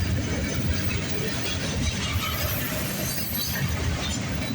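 Freight train rolling past close by: a steady rumble of wheels with dense metallic clatter and clinking from the rails. A faint high squeal comes in about two seconds in.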